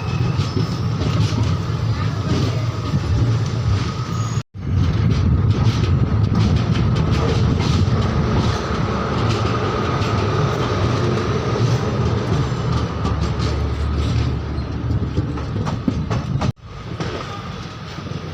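Train running along the track, a steady rumble with some wheel clatter, cut by two brief sudden drop-outs about four and a half and sixteen and a half seconds in.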